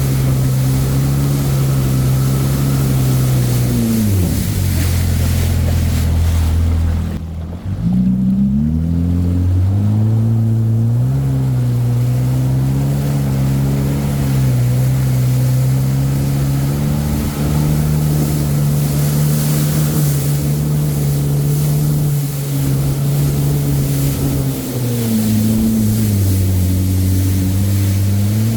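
Jet ski engine running under way, with a rush of wind and water. The engine note falls about four seconds in, climbs back a few seconds later, and falls again near the end.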